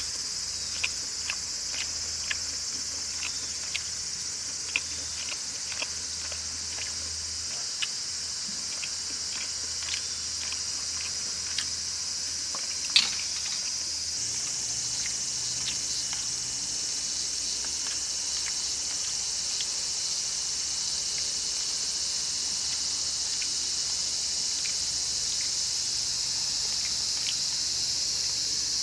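A steady, high chorus of insects chirring, with scattered sharp clicks through the first half and one louder click about halfway through.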